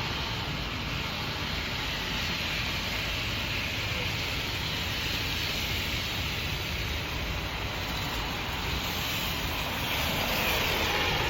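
Steady rushing wind and road noise with a low, gusty rumble on the microphone, as on a ride in wet weather, growing a little louder near the end.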